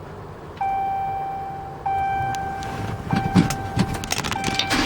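Dashboard warning chime of a 2016 Dodge Ram 5500 truck with the key on before a cold start, sounding four times, each tone fading before the next. Some clicks and low knocks come in over the last second and a half.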